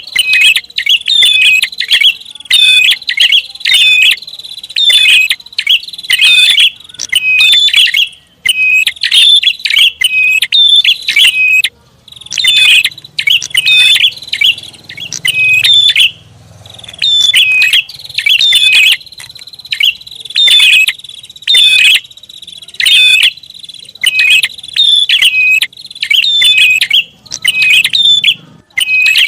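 Prenjak (prinia) lure call: loud, rapid, sharp chirping calls in fast runs with brief breaks, over a thin steady high tone.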